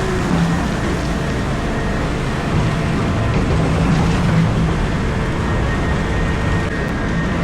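Komatsu PC4000 mining excavator running steadily under load, its diesel engine and hydraulics heard from inside the cab as a dense, even rumble with a faint whine above it.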